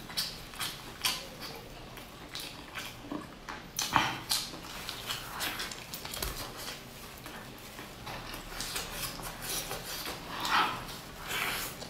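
Close-up eating sounds: gloved hands tearing chewy braised pork and a mouth biting, chewing and smacking on it, in irregular wet bursts. The loudest smack comes about four seconds in, with another run of louder chewing near the end.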